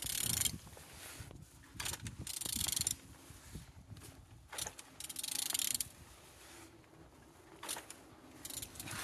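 Toyota 2AD-FTV four-cylinder diesel engine being turned over by hand: a run of mechanical clicks and three longer hissing strokes, about two and a half seconds apart, as the crankshaft is rotated. The engine turns freely.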